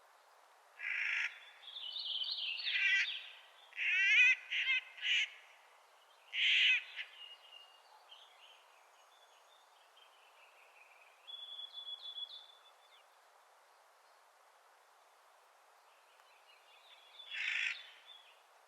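Clark's nutcracker giving harsh, grating calls: a run of them in the first seven seconds and one more near the end. Fainter, thinner bird notes come in between.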